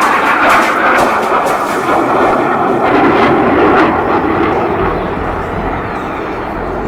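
Loud roar of a jet aircraft's engines passing overhead, with sharp crackles through the first few seconds, easing off about five seconds in.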